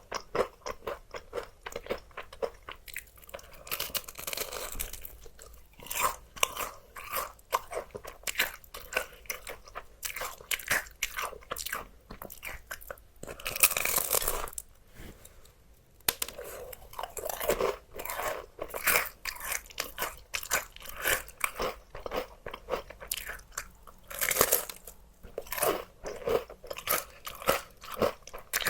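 Close-miked crunching and chewing of crispy fried chicken: crisp bites and chews in quick, irregular succession, with a short pause about halfway through.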